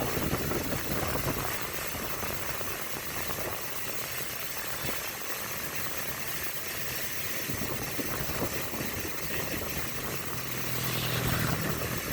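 Motor vehicle engine running with a steady rush of road and wind noise; a low engine hum grows stronger near the end.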